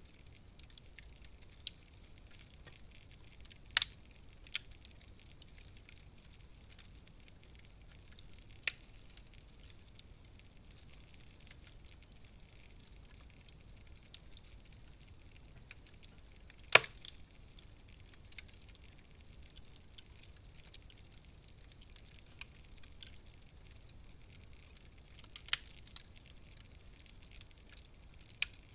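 Wood fire crackling in a fireplace: a faint steady hiss with sharp, irregular pops and snaps every few seconds, the loudest about four seconds, seventeen seconds and twenty-five seconds in. The fire is burning low, its heat dying down.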